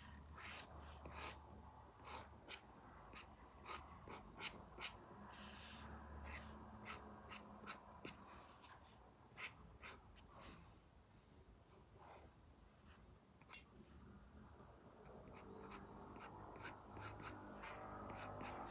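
Apple Pencil Pro tip tapping and stroking on an iPad's paper-feel matte screen protector: many quick light taps with short scratchy strokes between, and a longer stroke about six seconds in.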